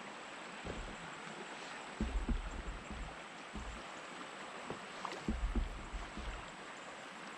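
Steady rush of river water flowing around a kayak, with a few dull knocks and bumps about two seconds in and again past the five-second mark.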